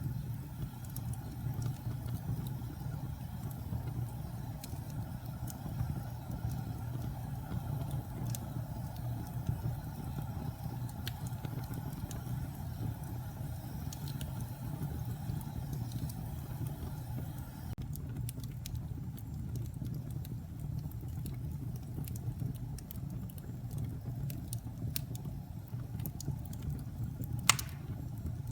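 Wood fire burning in a fireplace: a steady low rumble of the flames with scattered crackles and small pops, and one sharper pop near the end.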